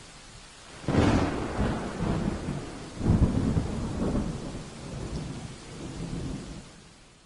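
Thunderstorm: steady rain, then a sudden thunderclap about a second in that rolls on in several rumbles and fades away near the end.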